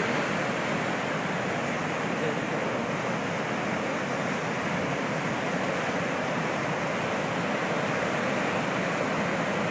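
High ocean surf breaking, a steady continuous wash of waves with no single crash standing out.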